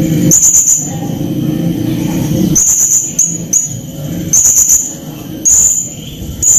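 A hanging parrot (serindit) calling agitatedly: clusters of short, shrill, very high chirps come several times, over a lower buzzing sound that comes and goes.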